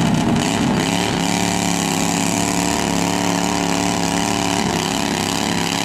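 Pulling tractor's engine running steadily under load during a tractor pull, holding an even pitch.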